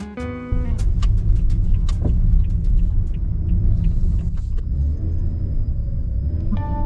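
A car driving: a steady low rumble of road and engine noise, starting about half a second in.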